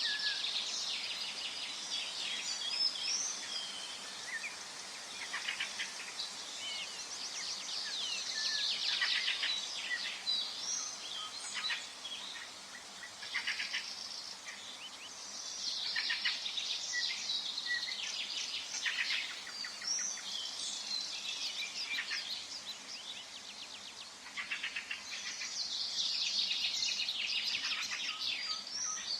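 Songbirds singing in a forest: overlapping bouts of high chirps and fast trills coming every few seconds, over a faint steady background hiss.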